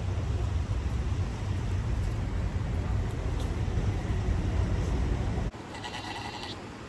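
Wind buffeting the microphone with a steady low rumble, then after an abrupt cut a single short bleat from a farm animal.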